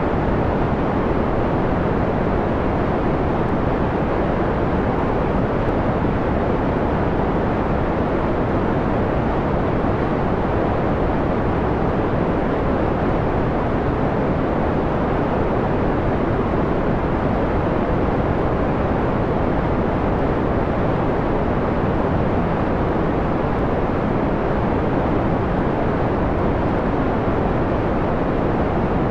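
Steady white noise filtered down to a mellow, dull hiss with little treble, constant throughout with no changes or events.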